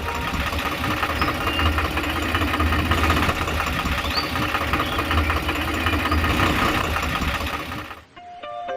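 An engine-like motor running steadily with a low rumble, cutting off abruptly about eight seconds in.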